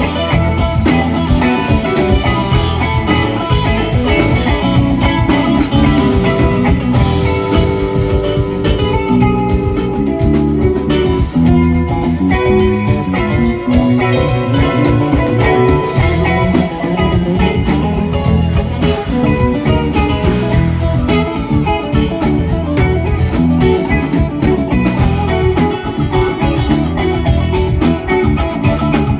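Rock band playing an instrumental jam: electric guitar lines over bass and a steady drum-kit beat, with no singing.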